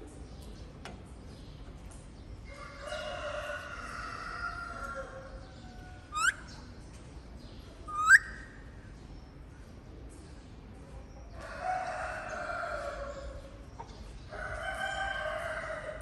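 Bird calls: three longer calls of two to three seconds each, and two short, sharp whistles rising steeply in pitch about six and eight seconds in, the loudest sounds.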